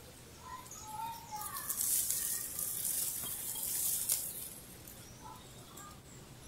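Small birds chirping in short, scattered notes. A high hissing rush swells about a second and a half in, is the loudest sound for a few seconds, and fades just after the four-second mark.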